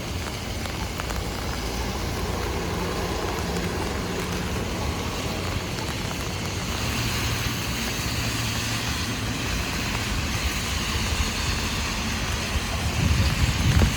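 Heavy rain hitting an umbrella over a wet city street, with car traffic running past on the wet road. A louder low rumble comes near the end.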